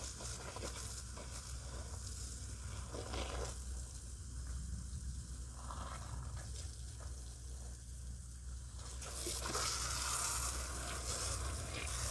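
Steady hiss over a low hum, growing louder about nine seconds in.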